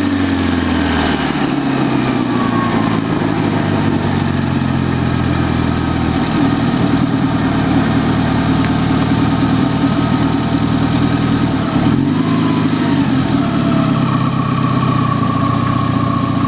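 Fiat barchetta's turbocharged 16-valve engine, heard from inside the engine bay, with its revs falling over the first couple of seconds and then settling to a steady idle. About twelve seconds in the idle dips briefly and recovers, and a faint steady high whine comes in near the end.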